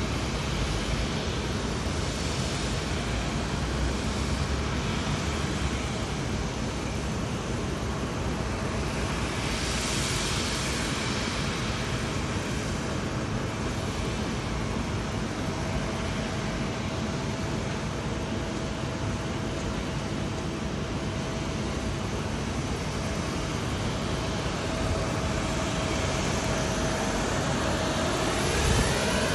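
Jet airliner engine noise at an airport: a steady rushing with a thin steady whine. Near the end it grows louder, with sweeping tones as an aircraft comes closer.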